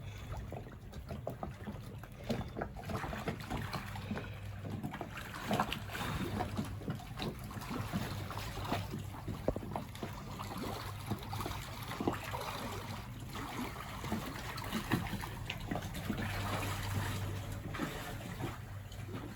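Water sloshing and splashing against the hull of a sailing catamaran, with irregular small splashes and knocks over a steady low hum.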